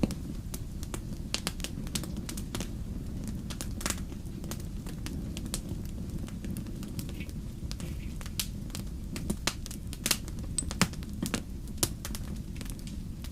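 Wood fire in a fireplace crackling, with irregular sharp pops, several louder ones near the end, over a steady low rumble.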